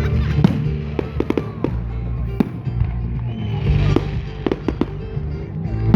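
Fireworks display: a string of sharp bangs and crackles from aerial shells bursting, with a stretch of crackling about three to four seconds in. Music plays steadily underneath.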